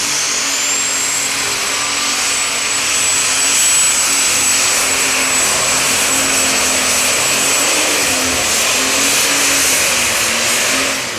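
Super stock pulling tractor's turbocharged engine running flat out during a pull. A high turbo whistle climbs in the first second and then holds steady over the engine noise, and the engine eases off near the end.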